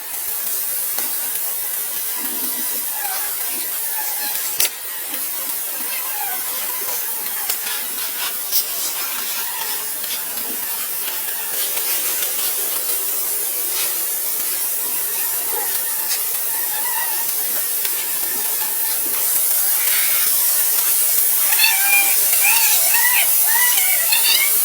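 A steady high hiss with scattered short chirping calls, which grow more frequent near the end, and a couple of sharp clicks.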